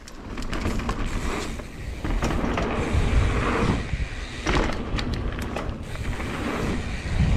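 Wind buffeting the microphone while a rider rolls down a jump line, with rough rattling and scraping clicks throughout.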